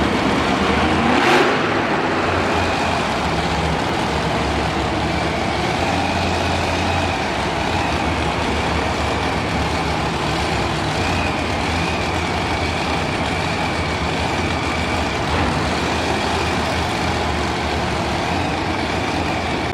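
Monster truck engine running loudly and steadily in an arena, with a sharp bang about a second in.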